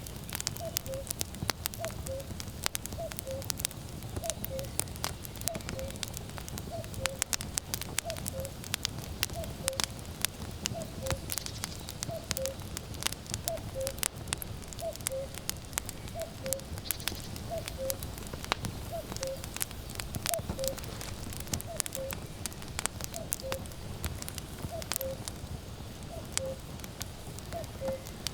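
Firewood burning with constant crackling and popping over a low rumble, while a common cuckoo repeats its falling two-note 'cuck-oo' call about once a second.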